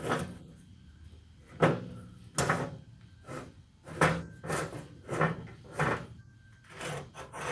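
The work-holding vise of an old Enco horizontal bandsaw being worked by hand: about nine scraping, clunking strokes at an irregular pace.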